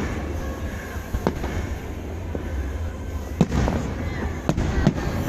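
Fireworks going off: sharp irregular bangs, the loudest about three and a half seconds in, over a steady low rumble of more distant bursts and crackling.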